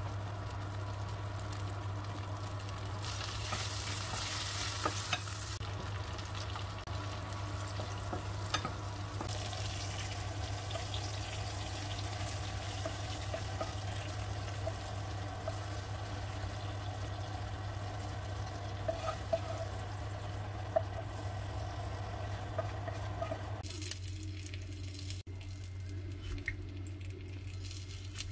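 Chillies, tomato, shallots and garlic sizzling as they fry in hot oil in a pan, with scattered small pops over a steady low hum; the sizzle drops away about three-quarters of the way through.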